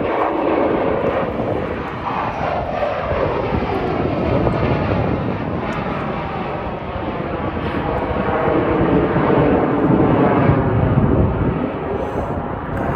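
Fixed-wing aircraft flying past overhead, a continuous engine roar whose pitch sweeps as it passes, growing louder at the start and again later on.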